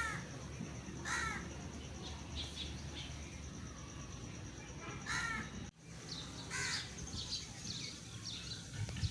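Crows cawing: about four single harsh caws spaced over several seconds. Fainter high chirps of smaller birds sit beneath them, over a steady low outdoor hiss.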